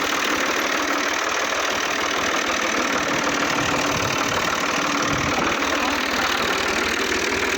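Tractor engine running steadily under a dense, unbroken mechanical noise.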